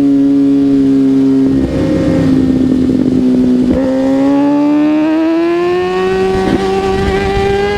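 Kawasaki ZX-6R 636 inline-four motorcycle engine under way at a steady pitch, going rough and noisy for a couple of seconds, then rising smoothly in pitch from about four seconds in as the bike accelerates through a gear.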